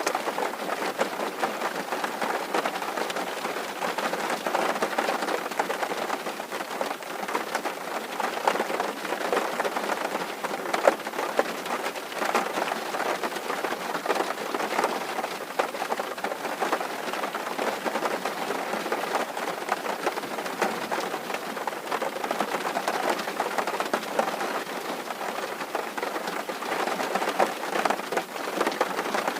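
Rain falling on a tin roof: a steady, dense patter of drops on the metal.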